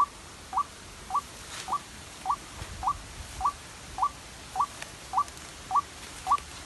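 White-breasted waterhen (ruak-ruak) calling: a short rising note repeated evenly, about one every 0.6 s, twelve times.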